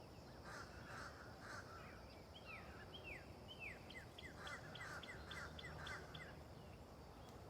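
Faint birdsong: a run of quick falling notes, then a series of short repeated notes at about four a second, over a faint steady high tone.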